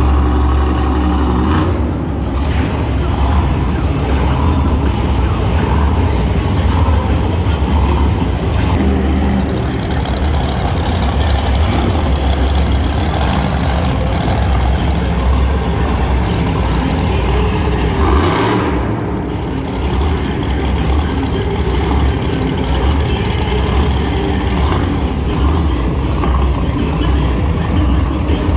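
Monster truck engines running loud and steady, a deep continuous rumble.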